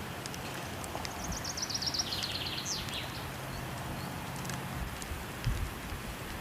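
A steady rush of water and occasional fire crackles. About a second in, a songbird sings a fast run of notes that steps down in pitch and ends on a quick upward note.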